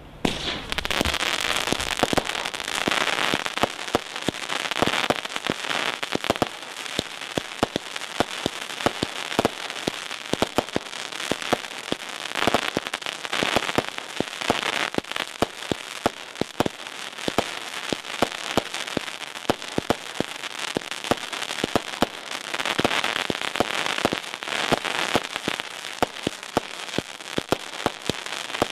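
Consumer firework barrage cake firing continuously: a rapid string of shots with dense crackling from crackling tails and crackling bursts, sharp pops throughout, starting suddenly.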